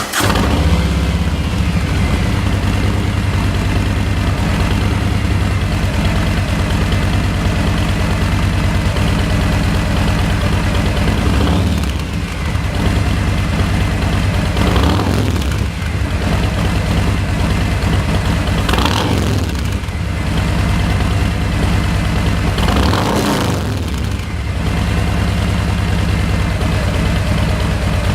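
2017 Harley-Davidson FLHXSE's V-twin engine idling just after starting, with four short throttle blips partway through, each rev rising and falling back to idle.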